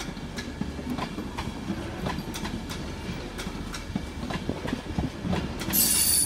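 Train moving over the tracks, its wheels clicking over rail joints with a steady rumble, and a brief high-pitched squeal near the end.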